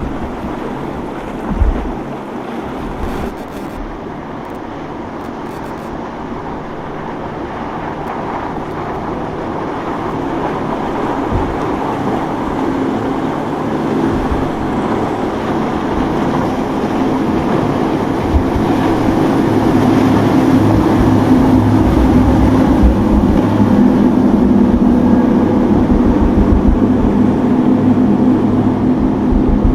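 Motorboat engine running and growing steadily louder as the boat comes closer, over wind buffeting the microphone and the wash of surf.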